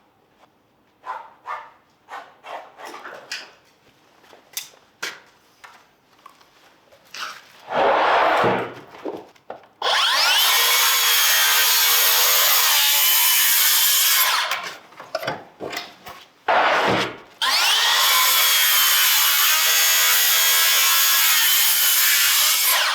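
Light knocks and taps of wood being handled, then a power tool cutting wood in two long passes a few seconds apart, each with a steady noisy sound and a slightly wavering motor tone.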